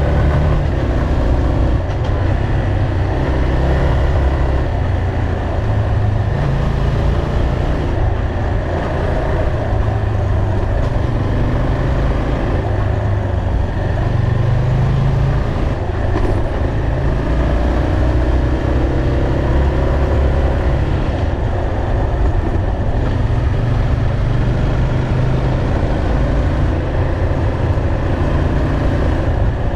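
Yamaha motorcycle engine running at low road speed on a winding climb, its pitch rising and falling repeatedly with the throttle, over a steady rush of wind and road noise on the helmet-height camera.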